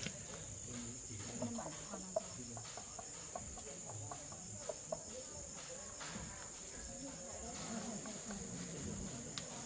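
Insects trilling in a steady high tone, with faint scattered clicks and chirps.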